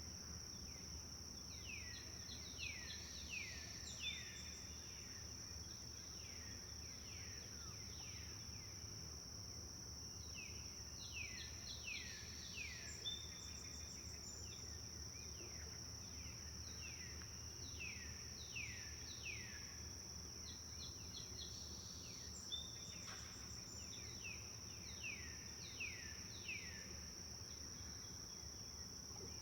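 Forest ambience: a steady high-pitched insect drone, with a songbird singing phrases of several quick downward-sliding whistles a few seconds apart.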